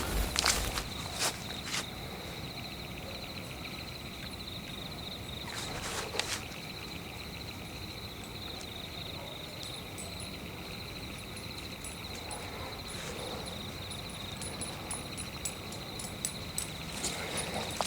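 Night forest ambience: insects trilling steadily in a high, finely pulsing tone. A few footsteps on the forest floor sound at the start and again near the end, with a soft rustle about six seconds in.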